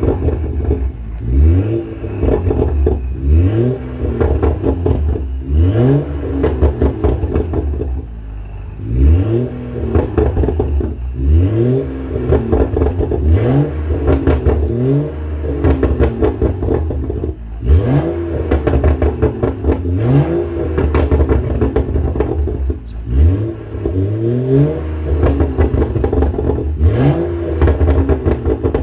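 BMW M235i's turbocharged 3.0-litre inline-six, straight-piped with the muffler deleted, revved again and again from idle, about every two seconds. Each rev climbs quickly in pitch, then falls back to idle with burbles from the exhaust.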